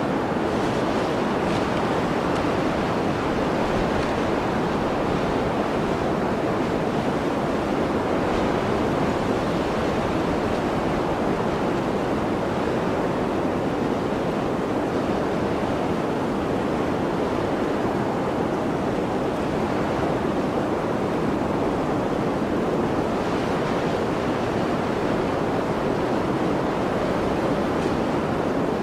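Blizzard wind blowing as a steady, dense rush with no breaks or distinct gusts.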